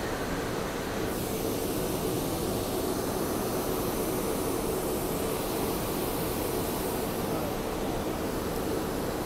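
SEPTA Regional Rail electric train car's steady equipment noise: a constant hum under a broad hiss, with the hiss turning brighter about a second in.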